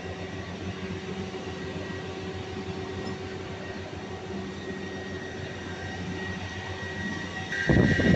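Steady drone of running machinery with a low hum. About seven and a half seconds in, a louder high whine and irregular clattering start.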